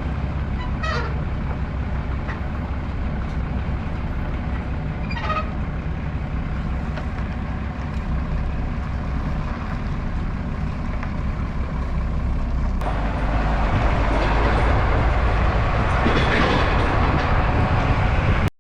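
Dodge Ram's Cummins turbo-diesel inline-six running steadily while towing a loaded trailer, with road rumble. Two short rising squeaks sound in the first few seconds, and the engine and road noise grow louder from about two-thirds of the way through.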